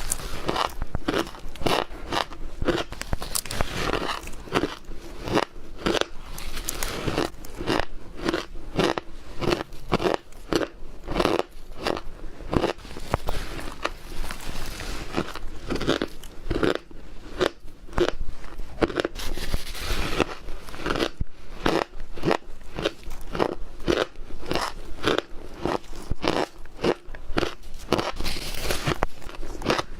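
Close-miked chewing and biting of ice: many irregular crunches and cracks, several a second.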